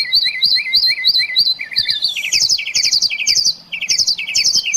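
Mockingbird singing: one rising-falling whistled note repeated about four times a second, then a switch about two seconds in to a different phrase of quick chattering note groups, each repeated several times.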